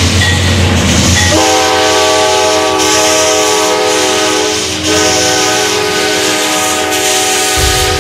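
Train rumbling past, then a multi-tone train horn sounding one long held chord from about a second and a half in, its notes shifting slightly partway through.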